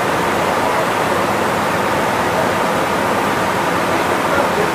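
Kanazawa Seaside Line 2000 series rubber-tyred automated guideway train running, a steady, even rolling noise.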